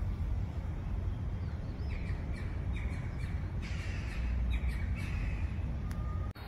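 A bird calling in a quick run of about seven short, repeated calls, starting about two seconds in, over a steady low background rumble.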